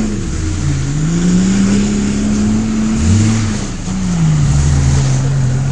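Off-road vehicle engine revving under load, its pitch rising and falling as the throttle changes, then settling to a steady lower speed for the last second or so.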